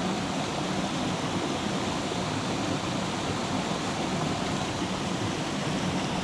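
A small mountain creek running, a steady rush of water.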